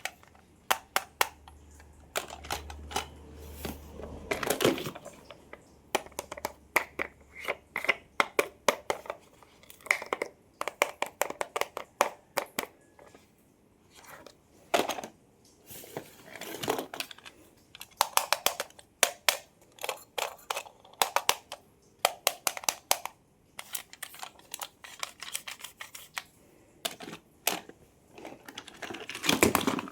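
Close-up handling of toy cars and their plastic packaging: a steady run of irregular sharp clicks and taps with bouts of crinkling plastic.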